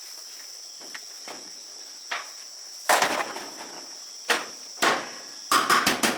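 Steady high insect chirring, with sharp knocks over it that come about a second apart and then in a quick run near the end.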